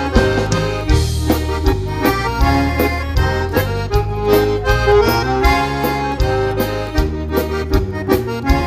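Instrumental passage of a Brazilian bandinha dance song: an accordion-led melody over bass and a steady dance beat.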